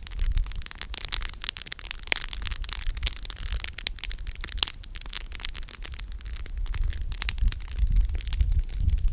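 Wood campfire crackling, the burning firewood giving off many sharp snaps and pops, over a low rumble that swells near the start and again near the end.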